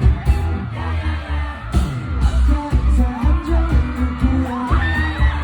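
Live K-pop concert performance heard from the floor: a pop song with a heavy, pulsing bass beat and singing over the venue's PA.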